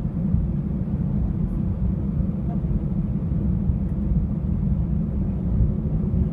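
Steady low rumble of an Airbus A319 airliner, engine and air noise, heard from inside the passenger cabin.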